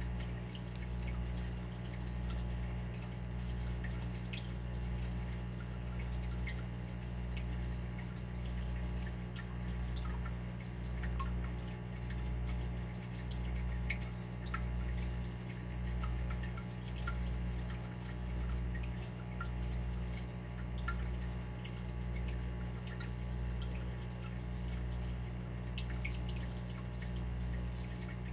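Water dripping and trickling in small, scattered drops over a steady low hum that swells and fades about once a second.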